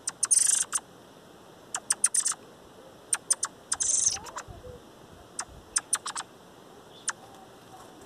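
Rufous-bellied thrush moving about on dry, stony ground right beside the microphone: irregular sharp clicks and scuffs in small clusters, with two louder scratchy bursts, one just after the start and one about four seconds in.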